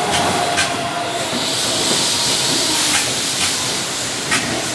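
Keihan 9000-series electric train rolling away over points and rail joints: a steady hiss with a few separate wheel clacks, and a faint whine that fades in the first second.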